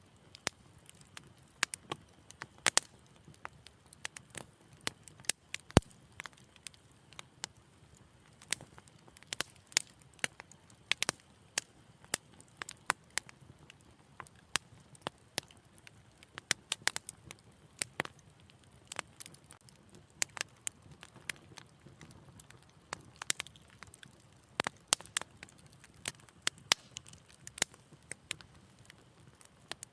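Wood fire burning in a fireplace, crackling with irregular sharp pops and snaps over a faint low hiss.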